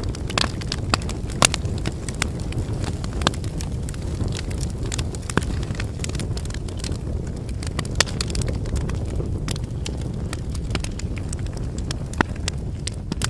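Wood fire burning: a steady low rush of flames with irregular sharp crackles and pops from the burning firewood, a few louder snaps standing out.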